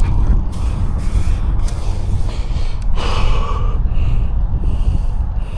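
Wind buffeting the microphone, a loud ragged low rumble, with a short breathy gust of noise about three seconds in.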